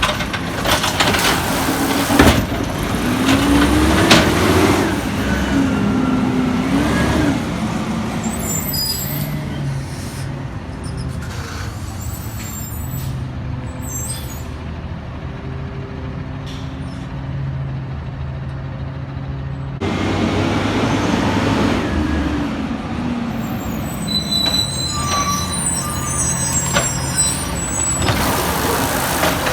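Peterbilt 320 garbage truck's diesel engine revving up and down, then running steadily, with loud air brake hisses near the start, about two-thirds of the way through and near the end.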